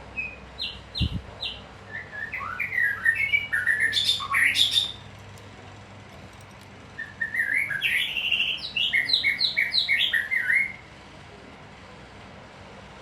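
A songbird singing two bouts of quick, varied chirping phrases, the second starting about seven seconds in, with a few single chirps just before the first. A brief low thump comes about a second in.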